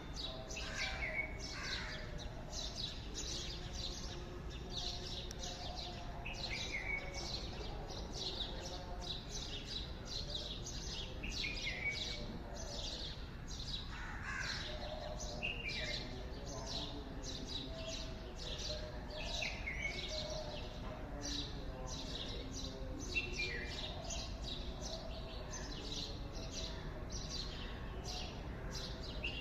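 Morning birds chirping and singing: a dense, continuous chorus of quick, high chirps, with a falling call that comes back every four or five seconds.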